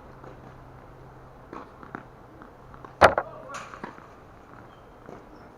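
A tennis racket striking a ball on a serve: one sharp, loud crack about three seconds in, after a couple of lighter taps.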